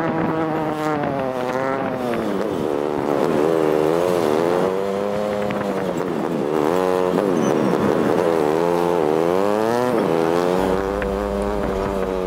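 Motorcycle engine running under load, its pitch climbing and then dropping sharply again and again every couple of seconds as the throttle is worked and eased.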